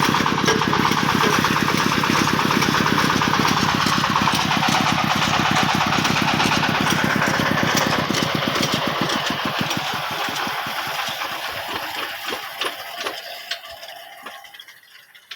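Engine of a well-drilling rig running with a steady beat, then slowing, its firing beats spacing out and fading until it stops near the end.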